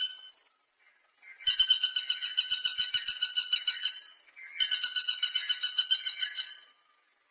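Woodpecker calling: two rapid series of short, high, identical notes, about eight a second, each series lasting two to two and a half seconds, the second starting about half a second after the first ends.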